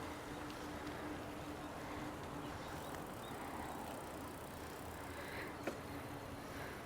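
Steady rolling noise of a bicycle ride along the trail, with a faint steady hum underneath and a single sharp click late on.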